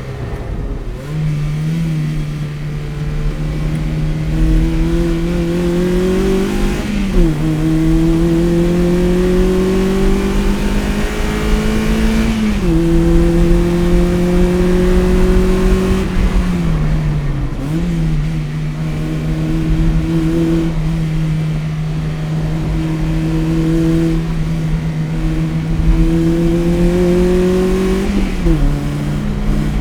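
Toyota MR-S's 1ZZ inline-four engine, breathing through an aftermarket header and Fujitsubo exhaust, pulling under moderate load: its pitch climbs slowly and drops sharply at each of several gear changes.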